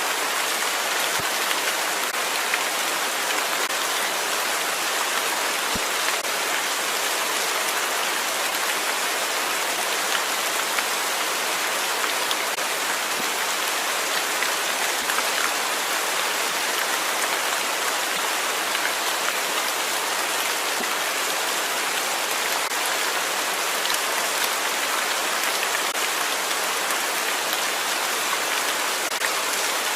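Steady, even rain falling, with a dense patter of drops on a surface.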